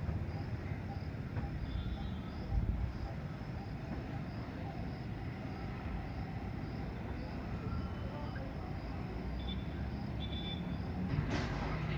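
Steady low mechanical rumble of running machinery, with an insect chirping in an even pulse high above it and a brief louder burst of noise near the end.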